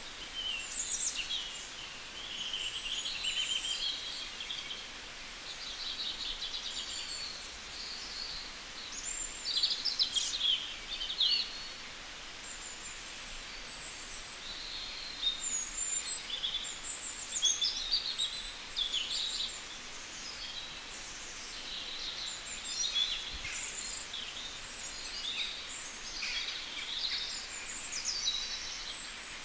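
Small birds chirping and singing, many short high calls in clusters, over a steady outdoor hiss.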